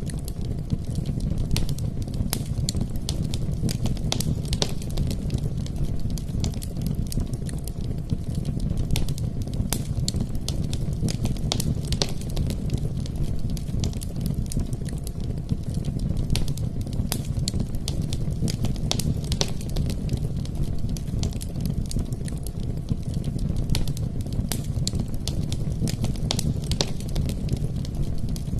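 Wood logs burning in a fireplace, crackling with frequent sharp, irregular pops over a steady low rumble.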